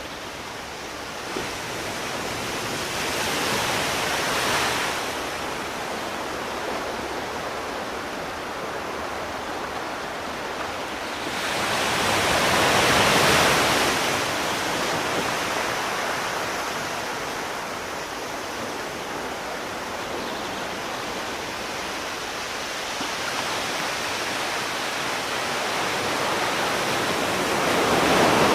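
Sea waves: a steady hiss of surf that swells as a wave breaks three times, a few seconds in, around the middle (the loudest) and again at the end.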